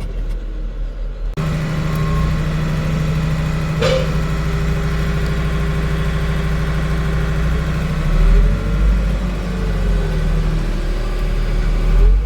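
Tractor engine running steadily, its pitch rising and falling over the last few seconds as the revs change.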